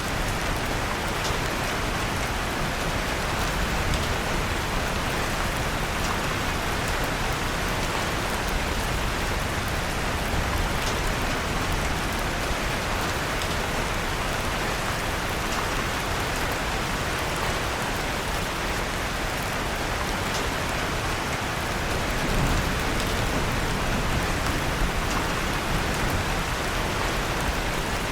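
Steady rain falling, with scattered small crackles from a wood fire in a fireplace.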